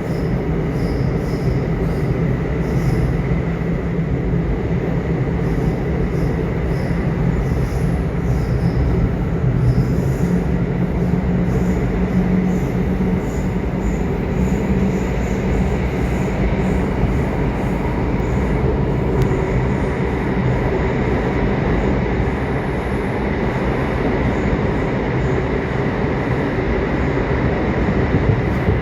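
Subway train running: a steady rumble of wheels on track with a thin, steady high whine over it.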